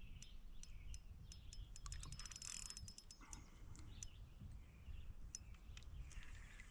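Faint clicking of a fishing reel during a fight with a hooked fish, with scattered ticks and a short burst of rapid clicks about two seconds in, over a low steady background rumble.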